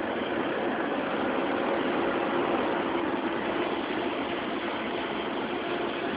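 Scania G124 truck's 12-litre inline-six diesel engine running steadily while pulling a loaded B-train, heard from inside the cab as an even drone with road noise.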